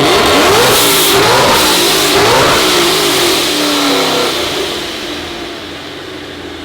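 Supercharged Ford Mustang 5.0 V8 revved hard and loud several times, engine pitch sweeping up and down, with two hissing blasts from its blow-off valves in the first couple of seconds; it drops back toward idle near the end.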